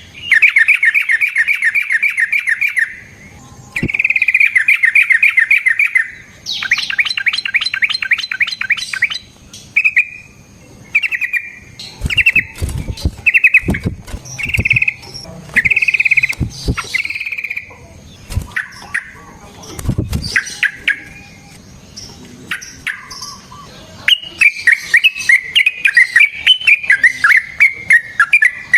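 Yellow-vented bulbul (trucukan) singing: long, rapid chattering trills, then a run of short bubbling phrases about a second apart, and rapid trills again near the end. A few dull knocks fall between the phrases.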